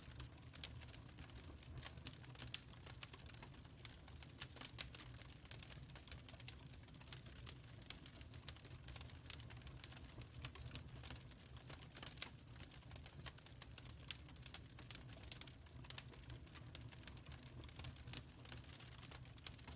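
Wood fire crackling in a fire pit: faint, irregular sharp pops and snaps over a low, steady background rumble.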